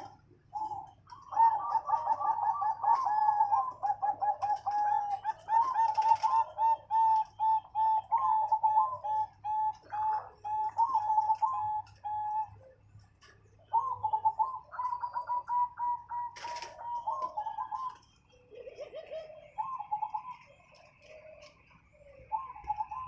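Zebra dove (perkutut) song: long runs of rapid, staccato cooing notes repeated phrase after phrase, with a couple of short pauses. A faint steady low hum runs underneath.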